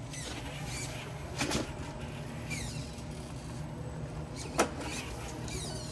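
Traxxas TRX-4 RC rock crawler's electric motor and geared drivetrain whining, rising and falling in pitch with the throttle as it crawls over rock. A knock about a second and a half in and a sharp click near the end, the loudest sound, as the truck strikes the rocks.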